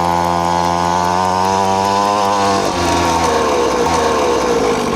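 Funbikes MXR 50 mini dirt bike's small two-stroke engine running flat out, held at a steady high pitch, then falling in revs from about two and a half seconds in as the rider backs off the throttle.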